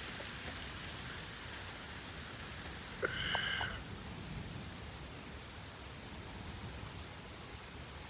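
Steady rain falling in a severe thunderstorm, with a brief high-pitched chirp about three seconds in.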